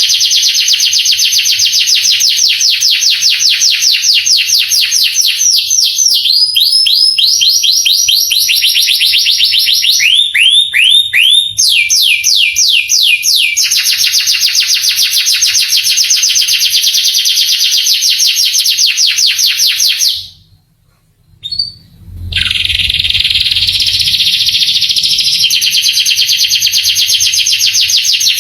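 Male canary singing long, rapid trills of repeated notes, switching from one phrase to the next every few seconds, with a short pause about two-thirds of the way through.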